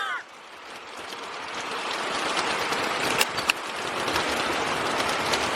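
Steady rain falling, a hiss that fades sharply at the start and then builds back up, with two sharp clicks about three seconds in.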